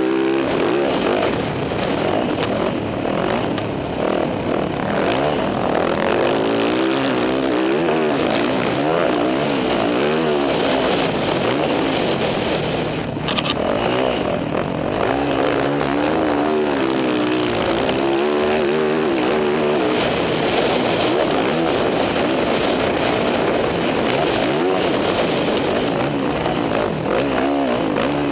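Dirt bike engine being ridden hard, its pitch rising and falling over and over as the throttle is opened and rolled off.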